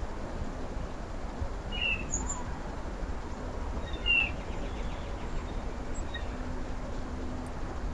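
Small birds giving a few short chirps, clearest about two seconds in and again about four seconds in, over a steady low rumble.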